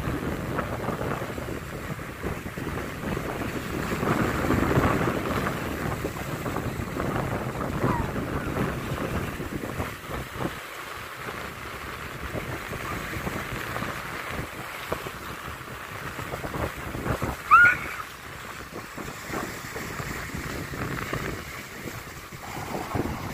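Wind buffeting the microphone over the wash of waves on the shore, a steady rough rushing. About two-thirds of the way through comes one short, sharp high chirp that rises in pitch, the loudest moment.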